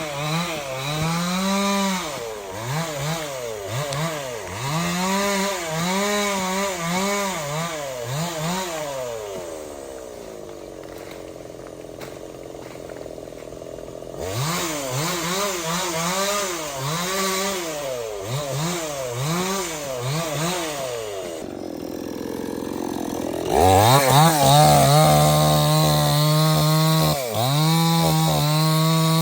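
Stihl 070 two-stroke chainsaw cutting into a teak tree, its engine pitch rising and falling in repeated swells. It drops back to idle for a few seconds, swells again, then from about 24 s in holds a loud, steady full-throttle pitch.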